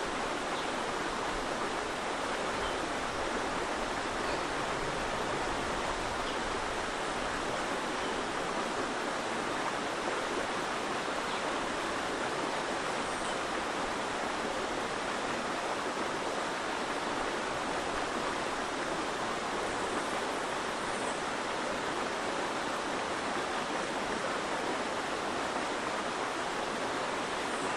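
Running water, a steady, even rush that holds without swells or breaks.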